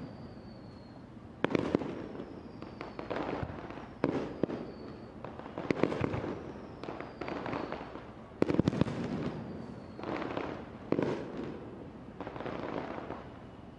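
Aerial fireworks shells bursting, a sharp bang every two seconds or so, each trailing off in a rumbling crackle. Faint whistles fall in pitch between the bursts.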